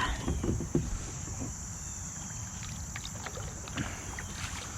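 Kayak sitting on creek water: a low, steady rumble of water and wind against the hull, with a few light knocks in the first second and faint ticks near the end.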